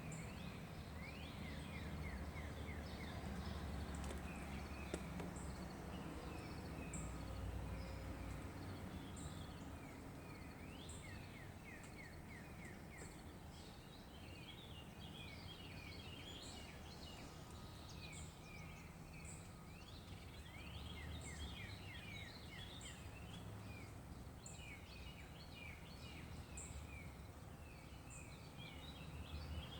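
Songbirds singing at dawn: repeated runs of short, falling chirps and high notes, over a low, steady rumble that swells now and then.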